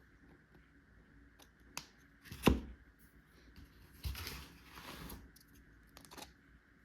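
Plastic toy tools and packaging being handled: small clicks, one loud knock about two and a half seconds in, then a rustling scrape lasting about a second.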